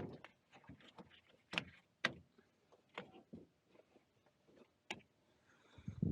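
Scattered handling noises at a gas furnace: about half a dozen sharp clicks and knocks with softer taps between, as tools and parts are worked by hand.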